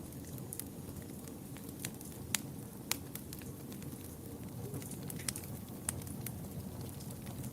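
Fireplace fire burning: a steady low rumble of flame with irregular sharp crackles and pops. Two pops stand out, a little after two seconds and about three seconds in.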